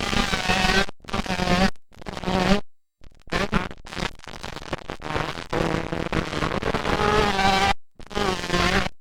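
Motocross dirt bike engines buzzing and revving. The sound cuts out abruptly several times, where the footage is edited.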